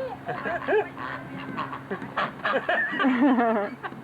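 Ducks calling: a string of short quacks and honks, with a louder, rapidly wavering call about three seconds in.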